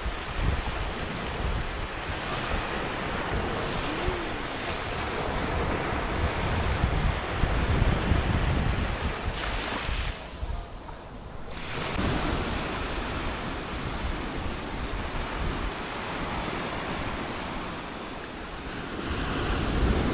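Sea waves breaking and washing up the beach in a continuous surf rush, swelling loudest about halfway through. Wind buffets the microphone throughout.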